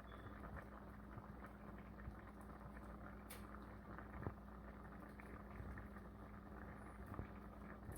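Faint crackling and bubbling of hot food cooking, over a steady low hum, with a few light clicks.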